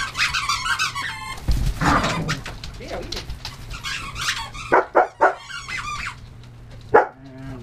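Dogs whining and yipping, with a few short sharp barks in the second half.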